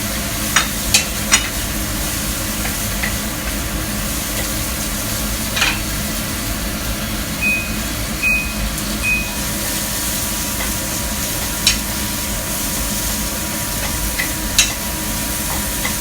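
Food stir-frying in hot oil in a pan: a steady sizzle, with a few sharp clicks of a spatula against the pan.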